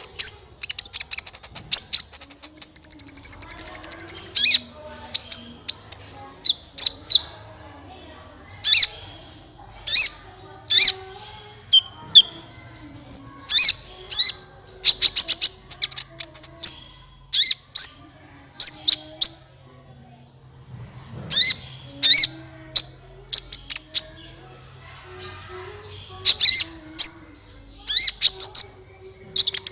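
Sunbird known in Indonesia as 'kolibri ninja' calling: bursts of sharp, high chirps and quick trills every second or two, with a brief thin buzzy note early on. This is the bird's lure call, used to attract wild birds of the same kind.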